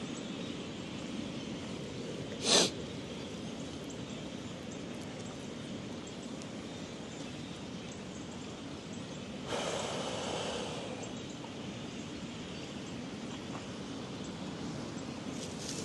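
Steady wind noise on a phone microphone. About two and a half seconds in there is one short, loud breath-like noise close to the mic, and a softer rush of wind-like noise comes at around ten seconds.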